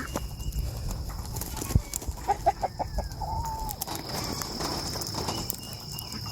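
Poultry calling: a few short calls about two seconds in, then a longer drawn-out call, over a sharp thump and knocking as a wooden rabbit hutch is shifted.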